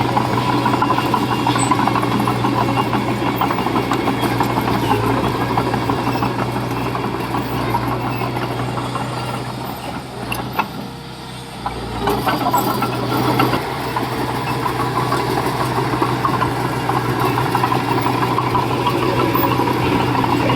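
Diesel engine of heavy earthmoving equipment running steadily. It drops back for a couple of seconds around the middle, then picks up again.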